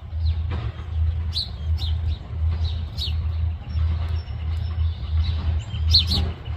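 Birds giving short, high, falling chirps, a few at a time, over a steady low rumble.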